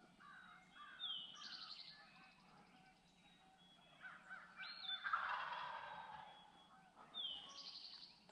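Wild turkey gobbling once, a rattling call about five seconds in that is the loudest sound, while a songbird repeats a short phrase of a gliding note and a fast trill twice around it.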